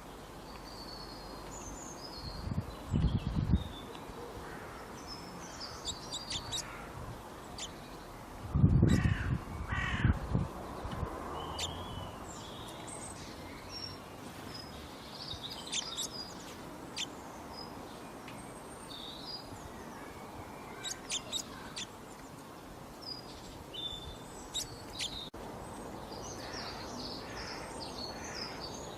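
Wild birds chirping and calling, with crows cawing, over a steady background hiss. Two loud low rumbles come about three seconds in and again around nine to ten seconds in.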